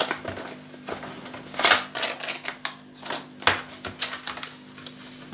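Plastic clicks, taps and scrapes as the housing of a wireless doorbell is handled and opened, the sharpest clicks coming about a third and two-thirds of the way through. A steady low hum runs underneath.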